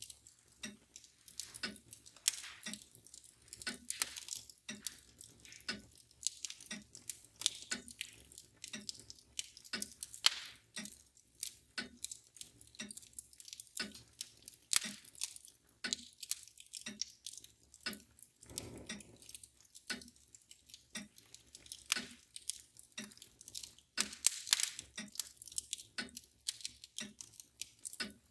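Wood fire crackling and popping in a fireplace, with a mantle clock ticking steadily underneath.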